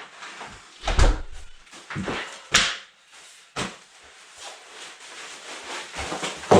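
A string of irregular knocks and thumps with softer rustling and scraping in between: a heavy thump about a second in, a short hissing scrape a little later, and the loudest knock near the end.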